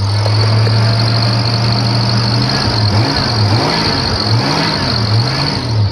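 1982 Jeep Wagoneer Laredo's carbureted engine running on a cold start after sitting unused. It holds a steady fast speed, then is revved up and down several times in the second half. A belt squeaks, which the owner puts down to the engine not having run in a while.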